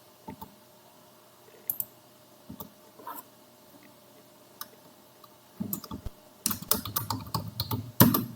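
Computer keyboard being typed on: a few scattered clicks at first, then a fast run of keystrokes from about halfway through as text is entered.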